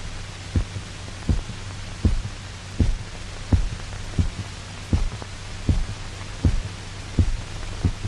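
Dog's heart beating steadily, heard amplified, about 80 beats a minute over a steady low hum, while its blood is drained off through the carotid artery and before the heart stops.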